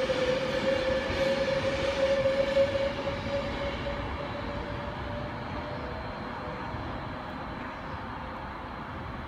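Class 390 Pendolino electric train pulling out: a whine that rises slightly in pitch and fades away over about six seconds, over a rumble that slowly dies down.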